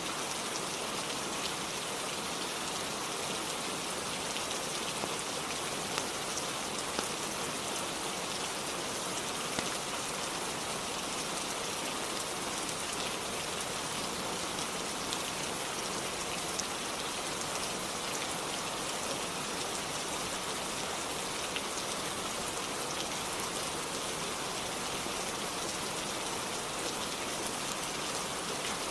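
Steady rain falling on a cabin roof, an even hiss with a few sharper drop ticks scattered through it.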